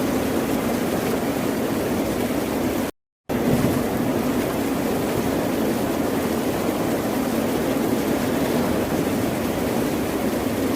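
Steady, continuous wash of ocean surf with a low, even rush. About three seconds in, it cuts out completely for about a third of a second, then resumes.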